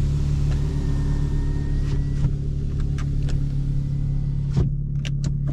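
A 2022 Lexus IS350's 3.5-litre V6 running at a steady idle, with a deep drone through its straight-through exhaust: a midpipe without secondary cats and a muffler-delete axle-back. A few light clicks sound over it.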